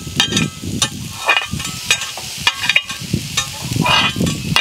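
Sliced onions sizzling in hot fat-back grease on a Blackstone flat-top griddle, with sharp crackles and pops all through.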